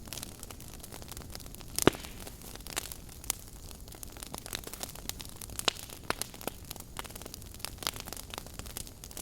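Wood fire burning in a fireplace: a steady soft hiss with irregular sharp crackles and pops, the loudest pop about two seconds in.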